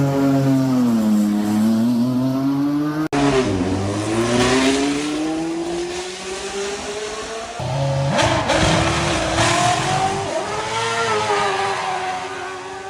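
High-performance supercar engines revving hard as they accelerate, the exhaust note falling and then climbing in pitch through the gears. The sound changes abruptly twice, about 3 s and 7.5 s in, as it jumps from one car to another.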